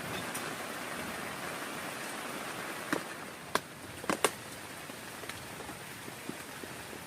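Steady rain falling, with four sharp taps of heavy drops landing close by, between about three and four and a half seconds in.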